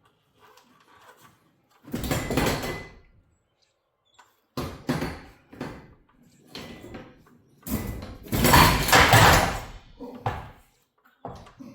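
Irregular bursts of clattering and scraping from work on garage door torsion spring hardware. The loudest and longest burst comes about eight to ten seconds in.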